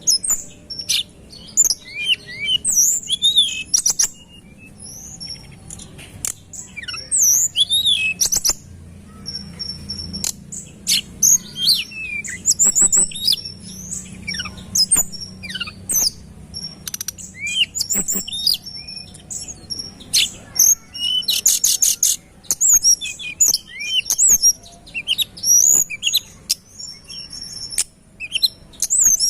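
Tledekan gunung songbird singing continuously: quick, sharp high notes and short gliding whistles in dense, rapid-fire phrases, with a fast rattling run of notes about three-quarters of the way through.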